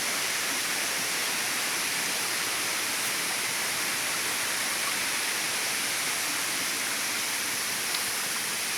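Waterfall rushing, a steady even hiss of falling water that does not change.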